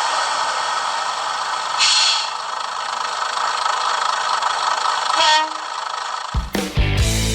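Train running noise, a steady hiss, with a brief louder burst about two seconds in and a short falling tone about five seconds in. Rock music with guitar cuts in suddenly about six seconds in.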